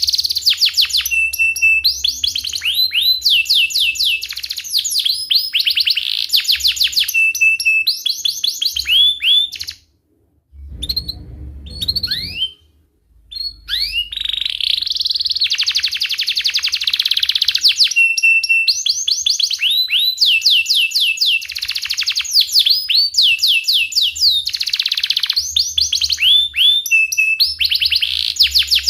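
Domestic canary singing vigorously: long runs of fast, repeated chirps and rolling trills. About ten seconds in the song pauses briefly and a short low rumble is heard.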